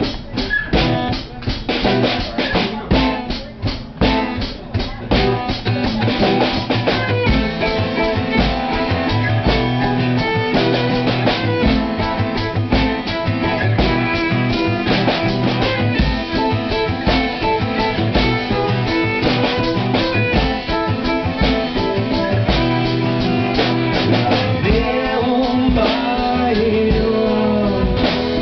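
Instrumental opening of a rock song played on drum kit, guitar and bass. Hard drum hits stand out over the first several seconds, then the full band settles into a fuller, steadier sound.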